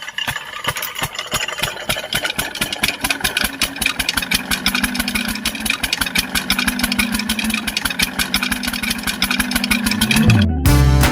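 Small tractor engine idling with a fast, even putt-putt of firing pulses. A steady hum joins about halfway through, and the sound cuts off suddenly near the end.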